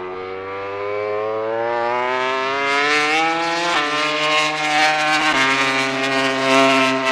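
A MotoGP prototype race motorcycle accelerating hard, its engine revs climbing and dropping sharply at quick upshifts about three and a half seconds and five seconds in, getting louder as it comes closer.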